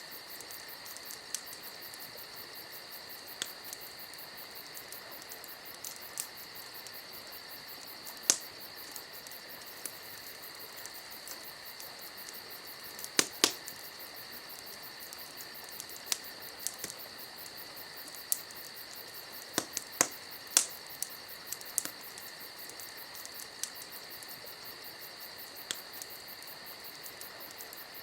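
Wood campfire crackling, with irregular sharp pops scattered through, a few coming in quick pairs. Behind it, insects trill steadily in a high, unbroken chorus.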